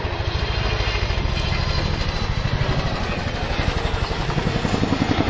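RAF Chinook helicopter's tandem rotors beating with a rapid, even blade slap over the turbine noise as it manoeuvres.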